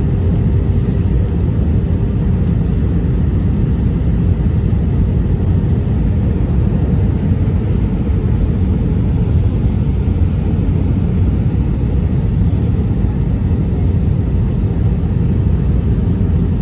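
Steady cabin noise of an Airbus A319 in flight: a dense, even low rumble of engines and airflow with a faint steady hum.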